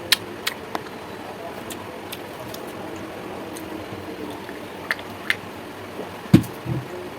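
Close-up eating sounds: a few sharp mouth clicks and crunches, scattered through, over a steady low background. Near the end there is a dull thump followed by a second, softer one.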